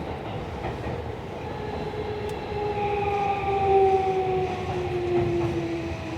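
Tokyo Metro Series 16000 subway train braking into a station, heard from inside the car. The VVVF inverter and traction motors whine in several tones that slowly fall in pitch as the train slows, over steady wheel and rail rumble.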